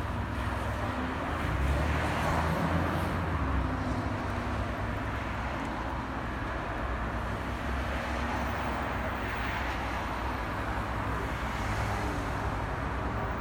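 Roadside traffic noise: a steady low engine rumble under a hiss of road noise, swelling twice as vehicles pass.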